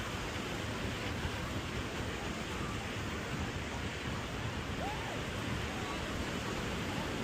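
Steady rushing wind noise over the microphone of a moving bicycle, even in level throughout. A faint short rising whistle-like tone comes about five seconds in.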